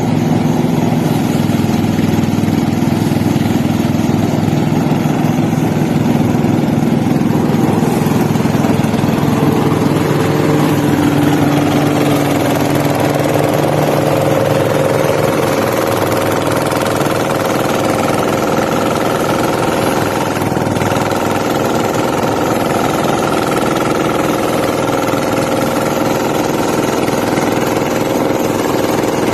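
An engine running steadily without a break. About halfway through its note changes and higher steady tones come in.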